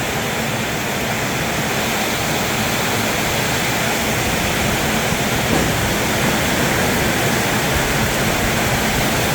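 Heavy rain pounding on a metal roof overhead, a deafening, steady roar of water noise with no break.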